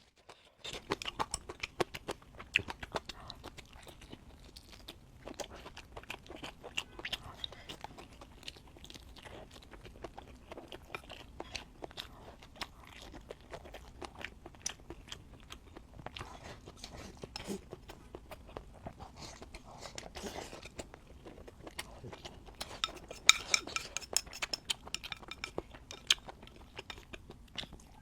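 Close-up chewing and crunching of food by one eater, with a steady run of crisp, irregular crunches and mouth clicks and a louder flurry of crunching a little after twenty seconds in.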